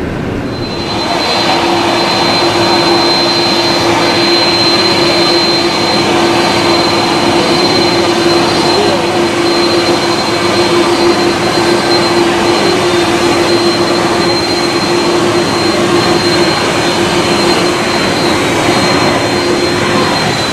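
Jet engines of a Starlux Airbus A321neo (CFM LEAP-1A turbofans) running loud, swelling about a second in and then holding steady. A high whine and a lower hum sit steady over the roar, and near the end the whine begins to fall in pitch.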